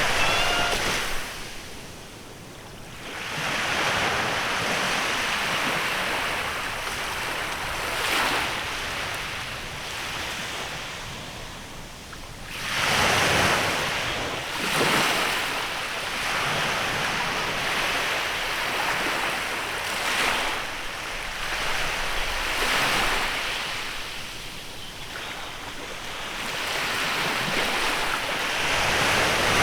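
Small waves breaking and washing onto a beach in a bay, surging every few seconds, the biggest about halfway through, with some wind on the microphone.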